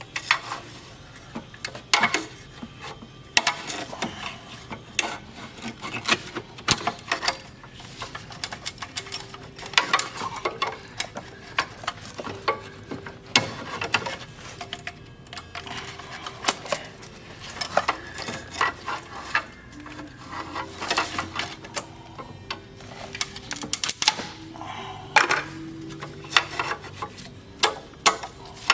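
Irregular clicking and clinking of small hard objects being handled, with many sharp knocks and no engine running.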